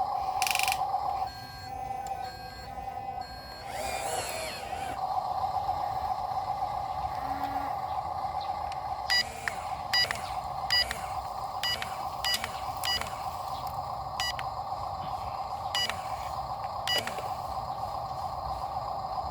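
Dump truck running with a steady hum. Through the second half come short, evenly spaced beeps, a little under one a second.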